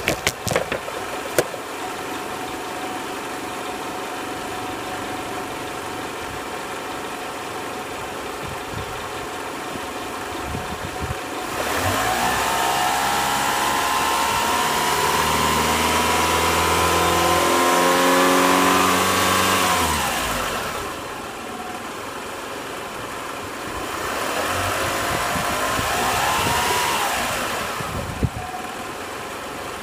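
2003 Mitsubishi Galant's 2.4-litre inline-four engine idling, with a few sharp clicks at the start. About twelve seconds in it is revved, its pitch climbing steadily for about eight seconds before it drops back to idle. A second, shorter rev rises and falls near the end.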